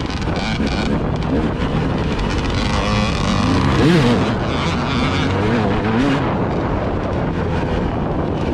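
Vehicle engine running under heavy wind noise on the microphone, its pitch rising and falling as the revs change, with a rise and fall about four seconds in.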